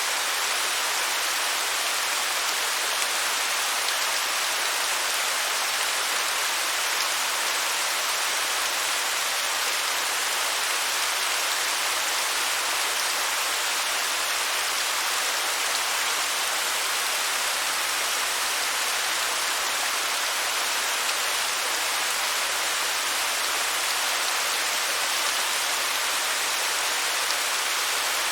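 Steady rush of falling water from a waterfall, an even hiss weighted toward the high end with little deep rumble.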